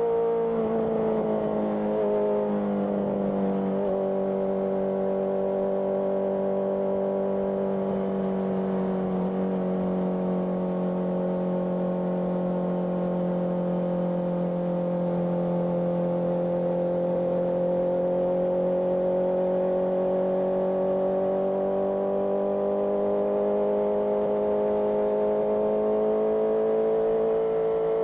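Honda CBR650R inline-four motorcycle engine through an IXIL IXRACE aftermarket exhaust, running at steady revs while cruising; the pitch dips slightly and then rises slowly toward the end. Wind and road noise sit underneath.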